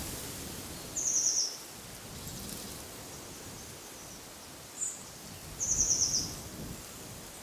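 A small songbird giving two short, rapid trills that slide downward in pitch, about four and a half seconds apart, with a single brief high note just before the second, over a steady hiss of wind in the trees.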